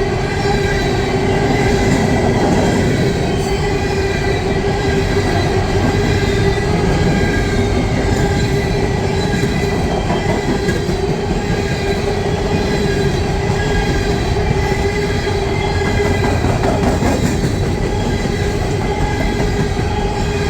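Empty coal hopper cars of a long freight train rolling past at speed: a steady rumble of steel wheels on rail, with a continuous high squeal from the wheels.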